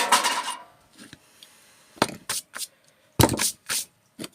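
Microwave scrap parts being handled and tossed aside: a loud clatter, then a few sharp knocks and clicks, and a louder run of knocks about three seconds in.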